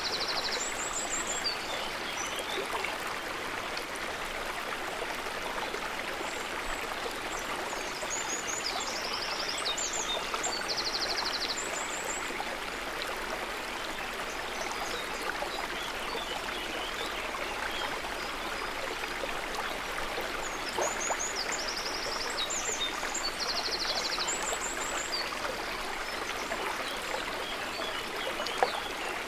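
River water flowing steadily, a constant rushing. Small high, rapid chirping trills come and go over it several times.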